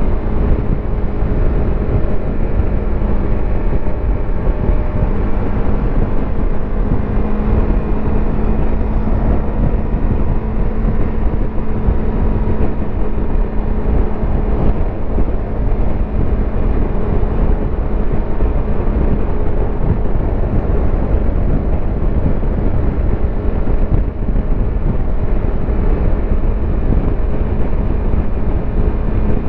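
Yamaha YZF-R25's 250 cc parallel-twin engine and exhaust heard on board while cruising on an expressway. The engine note holds steady at an even speed over a constant rush of wind and road noise.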